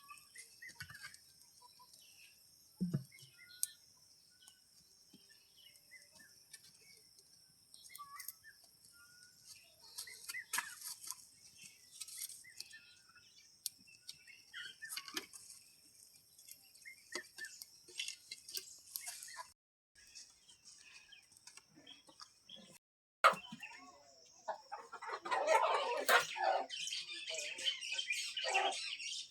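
Village yard ambience: scattered bird chirps and chicken clucking over a steady high-pitched drone. About three-quarters of the way through, the drone drops out, then louder squawking and calling.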